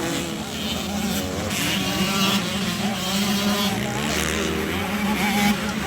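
Several motorcycle engines running and revving, their pitches rising and falling, over a steady low drone.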